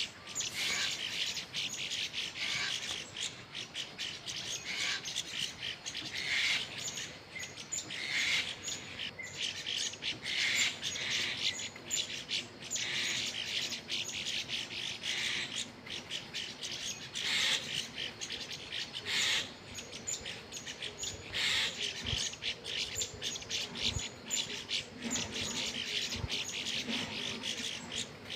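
Small birds chirping continuously, many short overlapping calls with louder chirps standing out every second or two.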